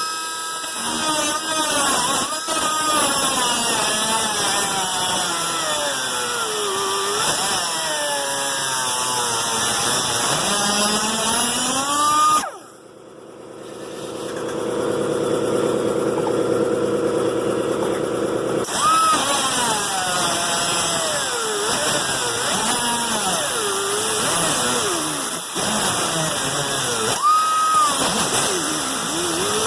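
Angle grinder cleaning rusty car-body steel down to bare metal before welding, its whine dropping in pitch as it is pressed into the metal and rising again as it is eased off. About twelve seconds in it stops briefly, then runs at a steadier, lower pitch for a few seconds before the rising and falling resumes.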